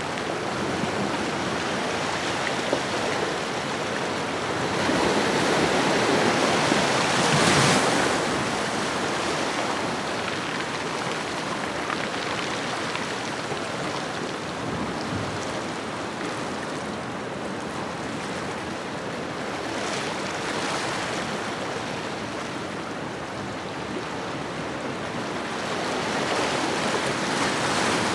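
Ocean waves washing onto a shoreline: a continuous rush of surf that swells as a wave breaks about five to eight seconds in, eases off, and builds again near the end.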